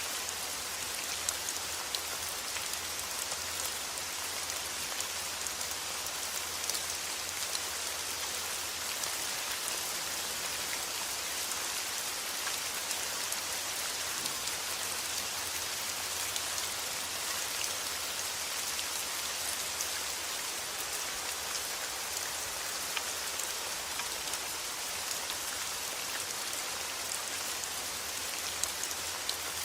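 Steady rain falling: an even hiss with small drop ticks scattered through it.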